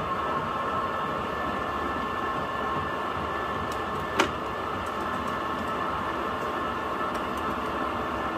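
Woodworking lathe running steadily as a cutter bores into a spinning log to hollow it out, with a steady whine. A single sharp knock about four seconds in.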